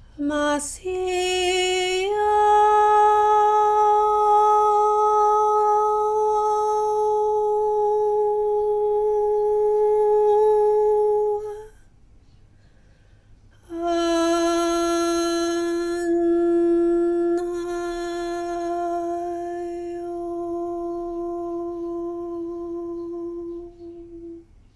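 A woman's voice toning long held notes. The first slides quickly up and then holds one steady pitch for about eleven seconds; after a short pause, a second, lower note holds for about eleven seconds.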